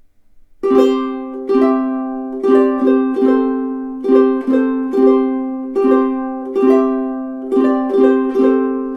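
Tenor ukulele with a solid spruce top and rosewood back and sides, strummed in chords that start about half a second in, each ringing and fading before the next.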